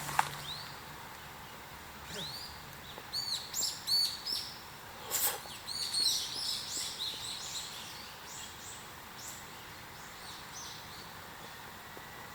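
Wild birds chirping: a quick run of short, arched, repeated calls from about three to seven seconds in, thinning out afterwards, with a single sharp click right at the start.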